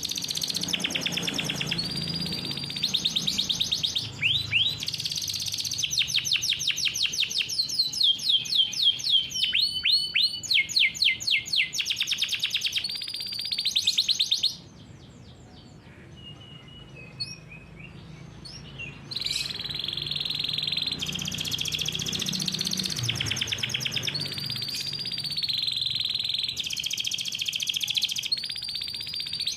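Domestic canary singing long rolling trills: runs of rapid repeated notes and series of quick falling sweeps. It breaks off for a few seconds about halfway, leaving only a few faint chirps, then starts trilling again.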